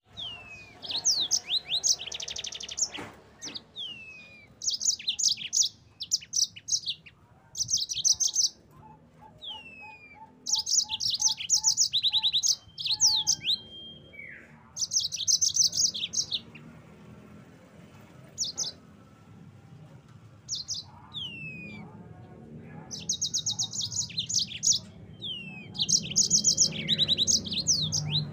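Yellow-fronted canary (Mozambique canary) singing: bouts of very fast, high trills separated by short pauses, with quick downward-sliding whistled notes between them.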